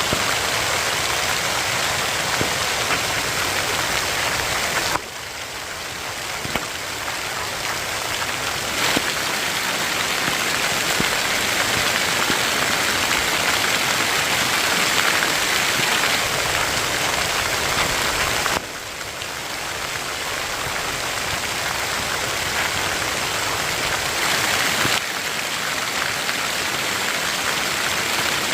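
Rain falling steadily, a dense even hiss with scattered drop ticks. Its level drops abruptly about five seconds in and again about two-thirds of the way through, then builds back up.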